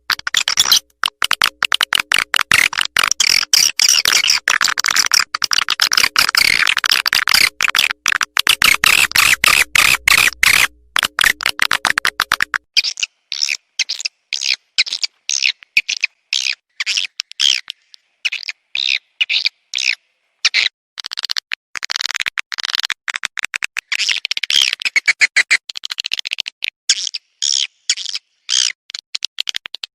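Recorded swiftlet calls played as a lure for swiftlets: dense, rapid, high-pitched twittering chirps throughout. A faint lower background under the chirps stops about thirteen seconds in.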